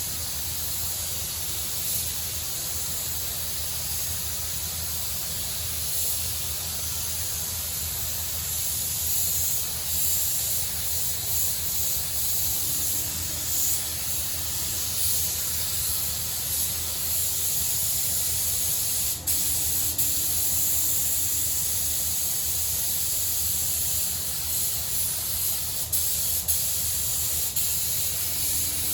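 Air spray gun hissing as automotive paint is sprayed in a light mist coat onto a car body panel, swelling and easing with the gun's passes over a low steady hum. There are a few sharp clicks in the second half.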